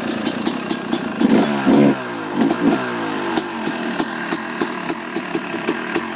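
2013 Yamaha YZ250's two-stroke single-cylinder engine through an FMF Fatty expansion chamber and Powercore 2 silencer, idling with an uneven crackle. About a second in the throttle is blipped, the revs rise and fall back, and a smaller blip follows shortly after.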